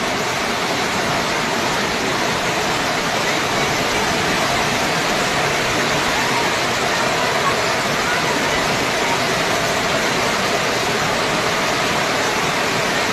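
Very heavy rain pouring down, a loud, steady hiss with no let-up.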